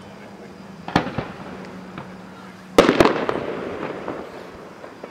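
Fireworks going off: a sharp bang about a second in, then a louder cluster of bangs about three seconds in that fades away over about a second.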